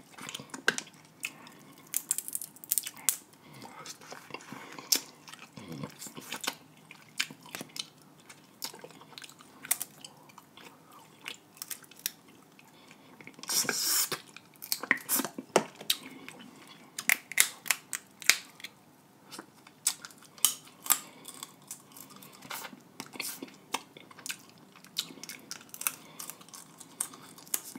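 Close-up eating sounds of snow crab and seafood boil eaten by hand: wet chewing and sucking of meat and sauce from fingers and shells, with an irregular run of sharp mouth clicks and smacks and a louder noisy burst about halfway through.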